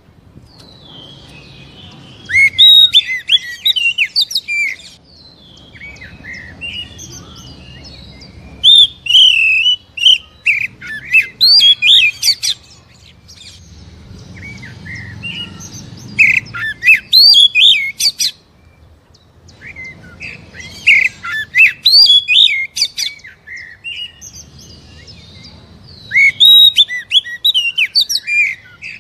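Oriental magpie-robin (kacer) singing in about five loud bursts of quick, harsh-toned phrases, each a few seconds long, with short pauses between. It is the emotive song used as a lure to set other magpie-robins singing.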